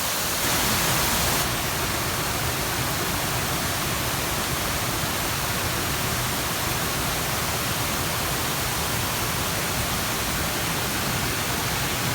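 Shiraito Falls' water falling, a steady rushing hiss, briefly louder for about a second near the start.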